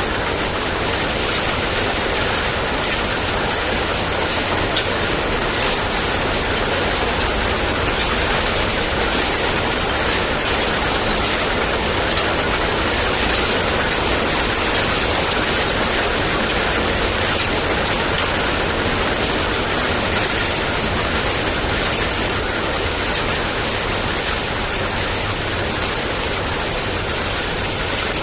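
Heavy downpour of rain falling steadily: a dense, even hiss with a steady low rumble underneath.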